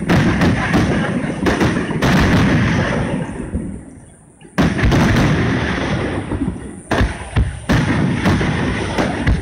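Fireworks display: a dense barrage of aerial shells bursting with booms and crackle. It dies away about three seconds in and resumes abruptly with a loud burst about a second and a half later.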